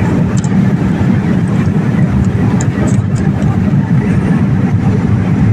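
Steady cabin noise aboard a Boeing 787 airliner: an even, unbroken rush of engine and airflow noise, heaviest in the low range.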